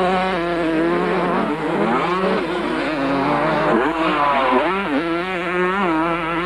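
Several motocross motorcycle engines revving, their pitches rising and falling and overlapping as the bikes accelerate and shift.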